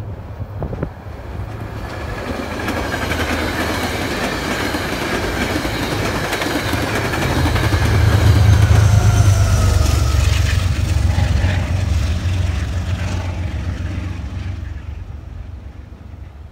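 Metro-North passenger train passing close by: it grows louder and is loudest about halfway through with a deep rumble, then fades away. A whine slowly falls in pitch as it goes by, and the wheels click over the rail joints as the last cars pass.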